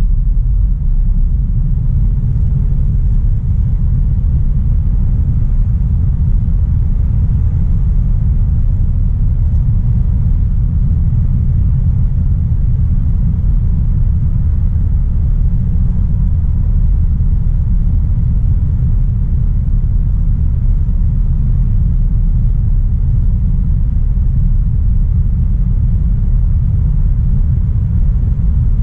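2016 Audi A3 Sportback 1.4 TFSI (turbocharged four-cylinder petrol) driving at a steady pace: a constant low rumble of engine and road noise, with no revving or gear changes.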